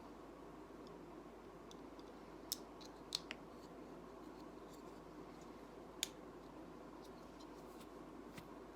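Plastic Lego pieces being handled and pressed together: a few sharp clicks, the loudest about three and six seconds in, over a faint steady hiss.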